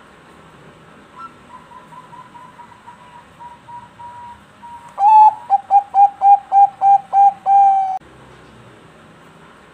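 Zebra dove (Bangkok perkutut) singing: a soft run of quick notes, then about halfway a loud series of about ten clipped coos ending in a longer held coo.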